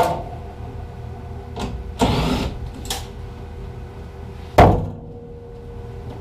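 Handling noises at an open furnace cabinet: a few sharp clicks and knocks, a brief scrape about two seconds in, and a heavier thump near the end, over a steady low hum.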